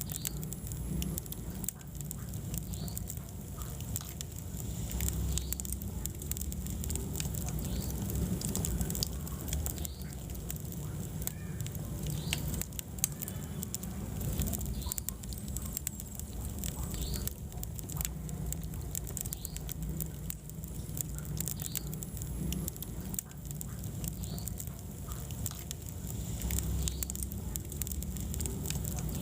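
Wood fire burning in a fireplace: a steady low rumble of flames with frequent sharp crackles and pops, and faint short high squeaks every second or two.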